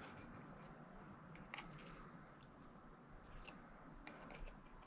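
Near silence with a few faint clicks and light scraping: a measuring caliper being slid and set against a pin or bushing to read its diameter.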